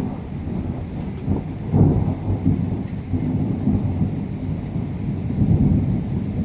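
Rolling thunder rumbling, loudest about two seconds in and swelling again near the end; not a big clap. Steady rain falls underneath.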